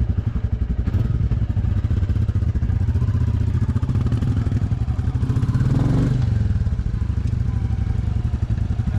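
Motorcycle engine running with a steady pulsing beat, revving up about five seconds in and dropping back a second later.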